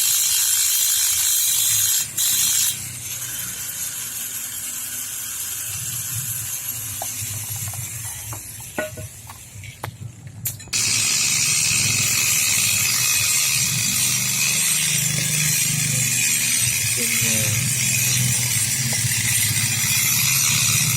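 Metalworking on a Vespa engine block: a steady mechanical working noise. It drops to a lower level about three seconds in, with a few sharp clicks near the middle, and returns loud about eleven seconds in.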